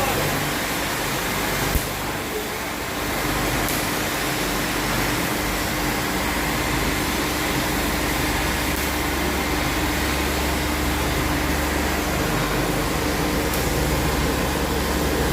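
Steady machinery hum and noise, with a steady low tone holding through most of it and one sharp click about two seconds in.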